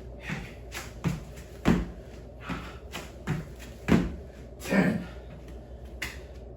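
A person doing a warm-up exercise: a string of short thumps and shuffles, unevenly spaced about one every half second to a second.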